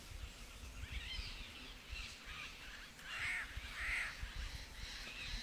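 Bird calling with harsh, arching, crow-like calls: fainter ones about a second in, then the two loudest close together a little past the middle, over a low uneven rumble.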